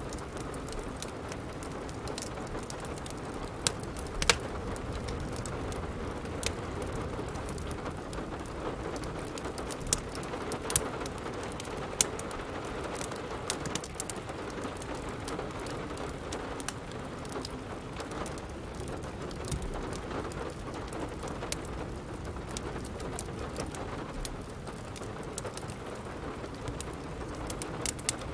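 Steady rain with scattered sharp crackles and pops from a wood fire, a few louder pops about four seconds in and again between about ten and twelve seconds in.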